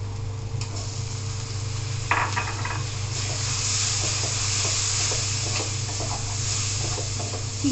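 Raw prawns going into hot oil in a steel wok with onions and spices, with a clatter about two seconds in as they land; they then sizzle louder while a metal spatula scrapes and stirs them. A steady low hum runs underneath.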